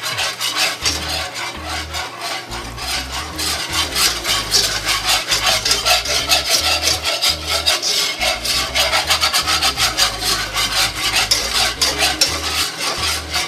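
A whisk scraping rapidly and steadily against the bottom of a stainless steel sauté pan, stirring a thick butter-and-flour roux as it cooks toward a brown roux.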